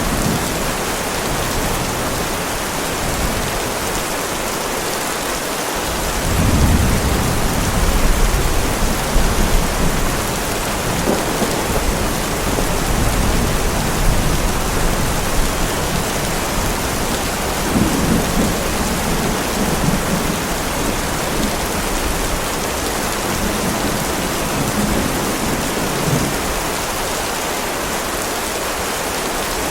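Heavy rain falling steadily, with rolling thunder rumbling in about six seconds in and again just past the middle.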